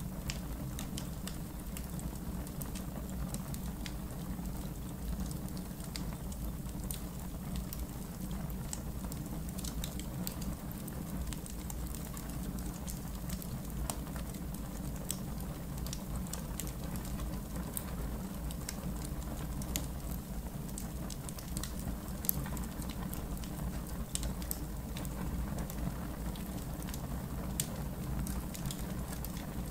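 Wood fire in an outdoor fire pit crackling, with irregular sharp pops and snaps over a steady low rumble.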